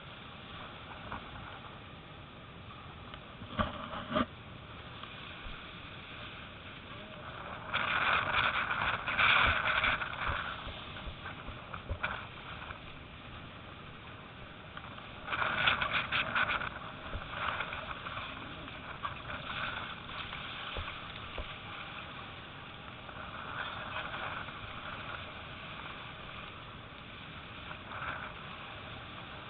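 Wind and water noise while windsurfing in strong gusty wind: a steady rush of air and water, with louder surges of rushing spray about eight seconds in and again about fifteen seconds in.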